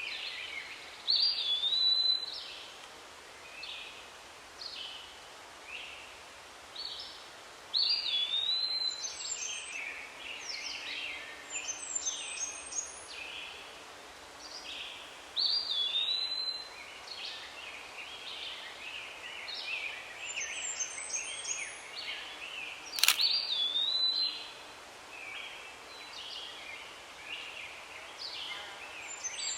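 Several forest birds calling: scattered short chirps and one whistled phrase, rising and then held level, repeated every seven or eight seconds. A single sharp click sounds about two-thirds of the way through.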